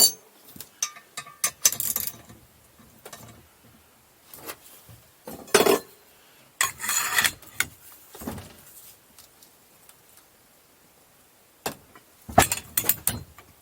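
Metal hand tools and engine parts clinking and rattling as they are handled, in scattered bursts of knocks and scrapes with short quiet gaps between.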